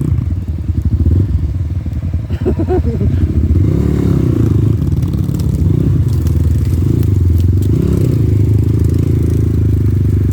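Off-road motorcycle engine running while being ridden, its revs rising and falling a few times over a steady low rumble.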